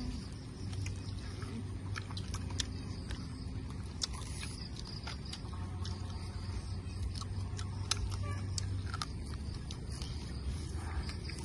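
Two people chewing roasted pork with their mouths open, with many short wet lip-smacking clicks scattered irregularly. A low steady rumble runs underneath.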